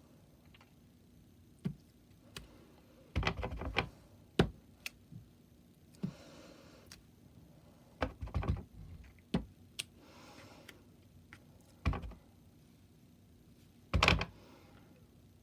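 A stamp being tapped on an ink pad and pressed onto card stock: short clusters of quick taps and single knocks on the table, with faint rustling between them.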